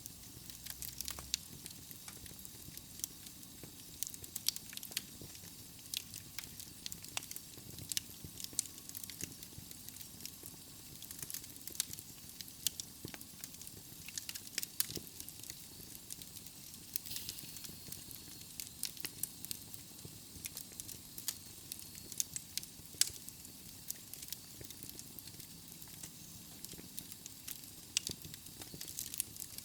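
Wood fire burning in a fireplace: burning logs crackling and popping at irregular moments over a soft steady hiss.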